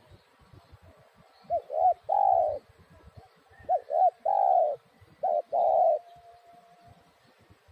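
Spotted dove (tekukur) cooing: three calls, each two short coos followed by a longer rolling coo.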